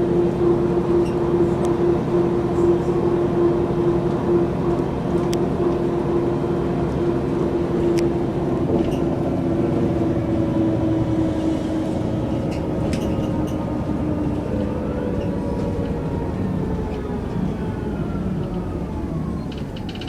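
Mercedes-Benz O405 N² city bus with a Voith automatic gearbox under way: a steady engine and drivetrain drone with a strong held whine for most of the time, then the pitch slides down over the last several seconds as the bus slows.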